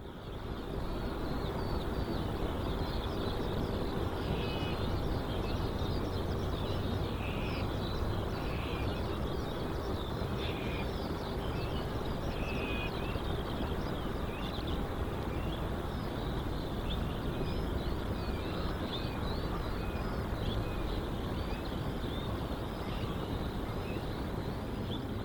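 Birds chirping and twittering over a steady low rumble of outdoor ambience with a faint steady hum.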